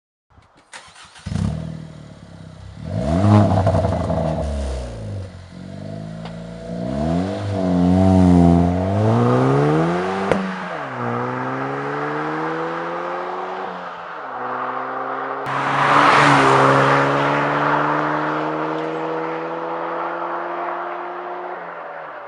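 Suzuki Swift Sport ZC33S's 1.4-litre turbocharged K14C Boosterjet engine heard through a stainless steel cat-back race exhaust. It starts about a second in and is blipped a few times, then the revs climb steadily twice, each climb ending in a sudden drop in pitch.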